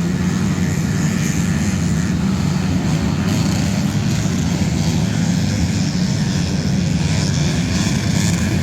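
Steady, loud engine drone that holds one low pitch without revving up or down.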